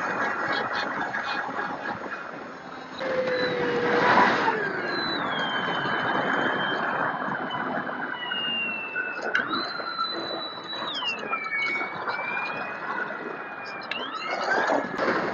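Small electric motor and propeller of an E-flite UMX Air Tractor model plane whining in flight, its pitch gliding up and down with a sharp drop about two-thirds through. Steady wind noise on the microphone runs underneath.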